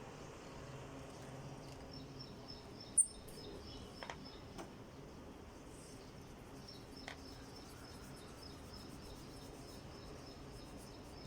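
Faint background noise with a thin, high, pulsing trill like a cricket, and one short high chirp about three seconds in. A few light clicks follow.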